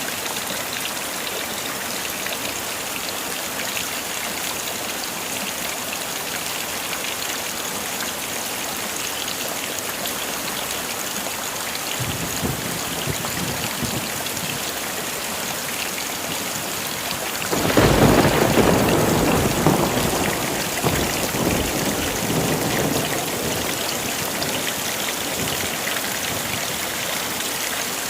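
Heavy rain falling steadily. A low rumble of thunder begins about twelve seconds in. Past the middle comes a sudden loud thunderclap that rolls away over several seconds.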